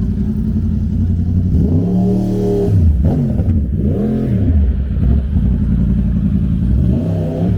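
Motor vehicle engine revving up and down three times over a steady low traffic rumble.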